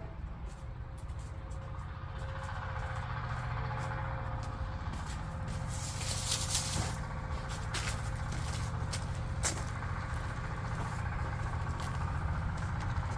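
Engine of a farm machine running steadily, with a low rumble, a faint steady whine and scattered clicks and knocks. The clatter and noise grow somewhat louder about halfway through.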